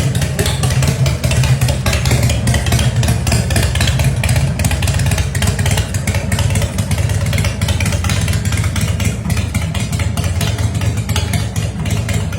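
A 2006 Arlen Ness Lowliner's big 2,032 cc S&S V-twin motorcycle engine running steadily, with a dense, fast exhaust beat.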